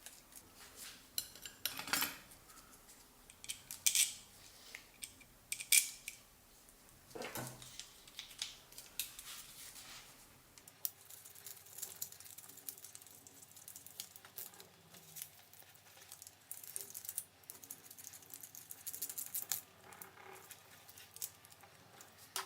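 Hands working on a blender's parts and tools: scattered clicks and light metallic clinks, the loudest about four and six seconds in, then a stretch of faint, fine scraping and rubbing through the second half.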